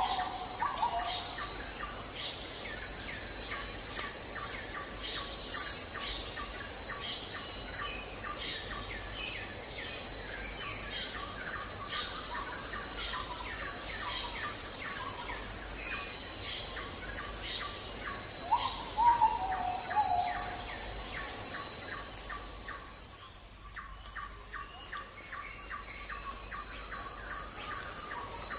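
Evening outdoor ambience of insects trilling steadily, with repeated short bird chirps. A bird gives a louder call of falling notes at the very start and again about 19 seconds in.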